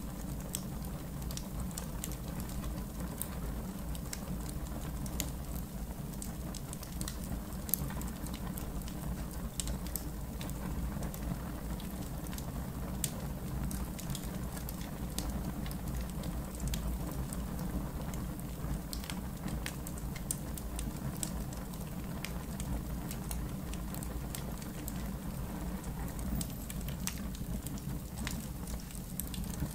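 Wood fire crackling: scattered sharp pops and snaps over a steady low noise.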